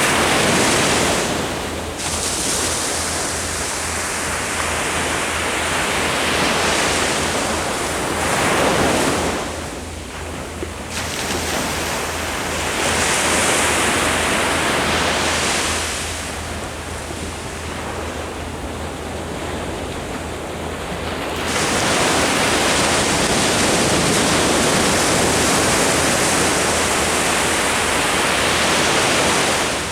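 Ocean waves breaking on the shore in a steady wash of surf, swelling and ebbing every few seconds, with a long, heavy surge in the second half.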